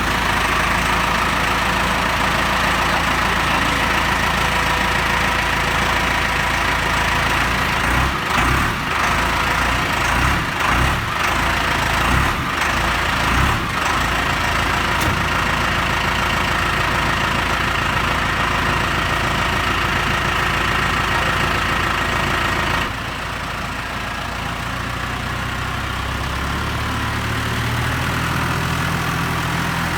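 The four-cylinder Iveco diesel of a New Holland tractor running just after a cold start without glow plugs. It runs unevenly for a few seconds, then about two-thirds of the way through it drops a little in level and settles into a steadier idle.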